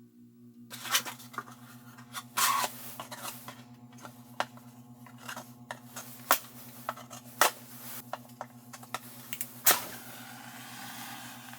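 A series of sharp clicks, knocks and scrapes of objects being handled in a small room, over a steady low hum. Near the end a louder knock is followed by a steady hiss.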